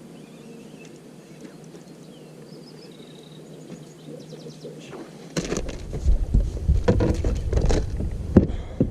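Faint bird chirps over a quiet outdoor background. About five seconds in, a loud low rumble starts, with several sharp knocks.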